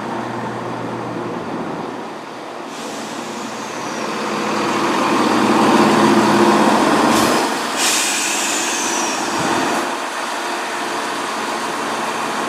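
Class 170 Turbostar diesel multiple unit arriving at the platform. Its underfloor diesel engines are running, swelling to a peak about halfway through. High brake squeals fall in pitch twice as it slows.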